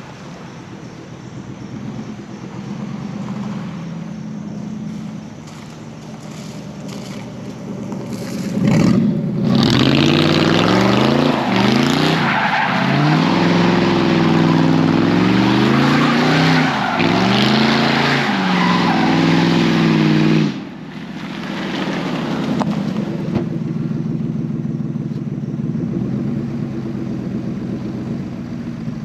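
Rear-wheel-drive V8 car engine revving hard, its pitch rising and falling again and again, with a loud hiss of tyres spinning and sliding on wet road. This starts about nine seconds in and cuts off suddenly around twenty seconds. Before and after, the V8 runs at lower revs.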